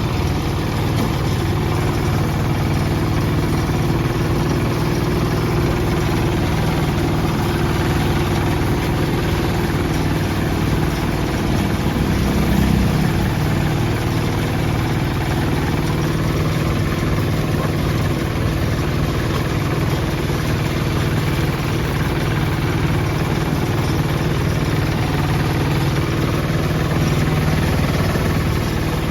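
Hand tractor's engine running steadily, with a brief swell in level about twelve seconds in.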